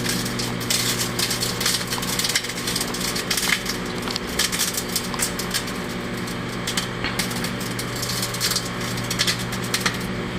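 Microwave oven running with a steady hum while CDs inside arc, crackling and snapping in irregular sharp clicks.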